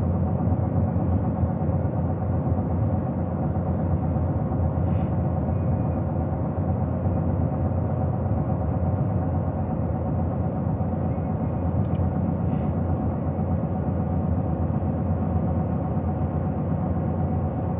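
Steady engine and road noise heard inside the cab of a moving truck, a low even rumble, with a couple of faint clicks.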